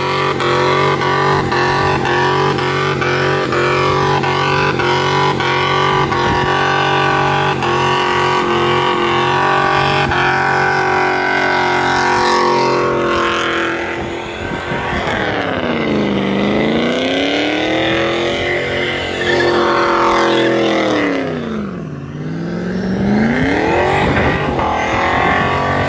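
Car engine held at high revs during a burnout skid, with the tyres spinning. About two-thirds of the way through, the revs drop and climb back up twice.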